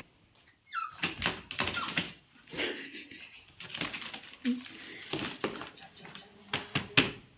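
A Shih Tzu moving about: a run of knocks, scratches and rustles, with a short high falling sound about half a second in.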